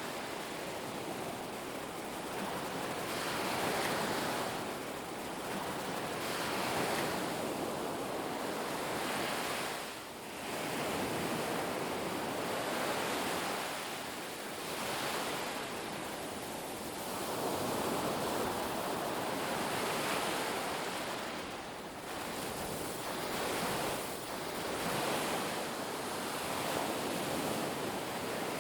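Ocean surf breaking on a beach: a continuous rushing wash that swells and eases every few seconds as waves come in, with two short lulls.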